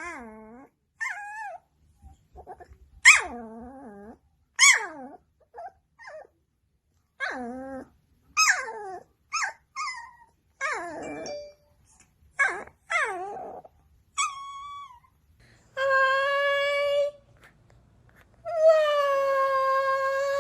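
A dog 'talking': a run of short whining, grumbling and yipping calls that swoop up and down in pitch, then two longer, steady, held calls near the end.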